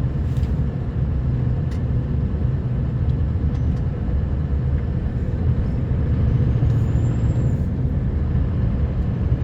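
Scania R560's V8 diesel engine running steadily as the truck plows through snowdrifts, a low drone that swells slightly about six seconds in.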